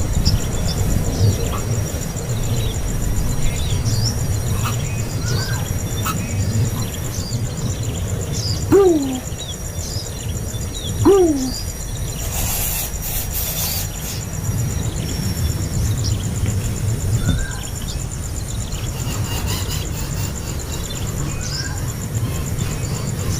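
Nestling songbird chicks making short, thin begging chirps over a steady low rumble. Near the middle come two louder, low calls that fall in pitch, about two seconds apart, followed by a brief rustle.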